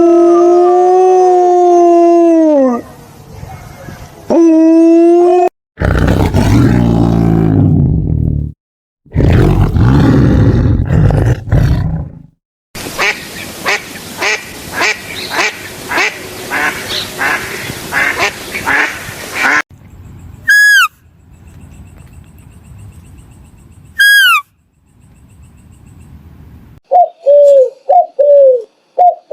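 A string of separate animal calls cut one after another: a long held call, a low rough call, a run of rapid repeated calls, two sharp falling whistled chirps, then quick short falling calls near the end.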